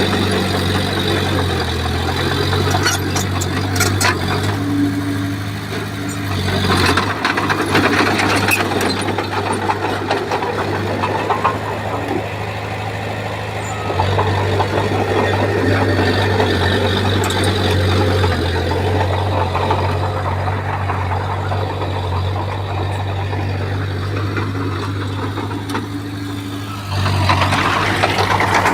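Bulldozer's diesel engine running under working load, its drone shifting in pitch and level several times, with a few metallic clanks about three to four seconds and seven to eight seconds in.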